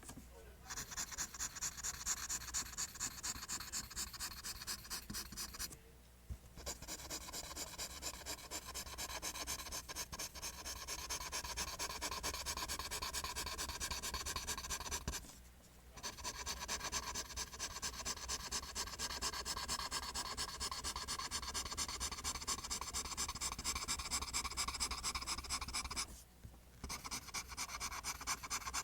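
Pencil drawing lines on paper: a rapid, rhythmic scratching of quick strokes, several a second, stopping briefly three times as the pencil is lifted.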